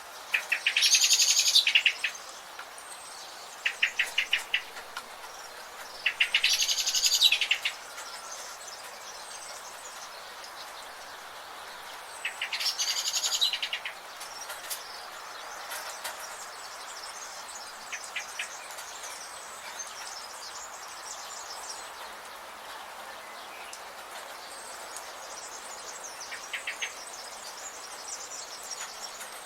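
A songbird repeating a loud, rapid trilling song phrase three times, about every six seconds, in the first half. Shorter chattering trills and faint high calls from other birds sound over a steady background hiss.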